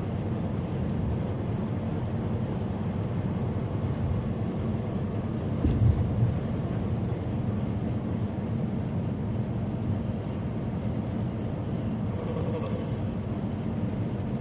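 Steady road and engine rumble inside a semi-truck's cab cruising at highway speed. A brief louder thump comes about six seconds in, like the tyres crossing a bump or seam in the road.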